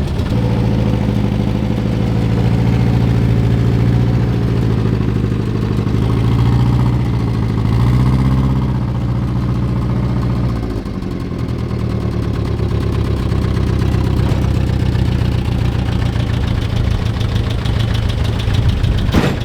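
Peugeot 403's four-cylinder engine running at low speed, revving up a little about a third of the way in and dropping back to a steady idle about halfway through. A single sharp knock comes near the end.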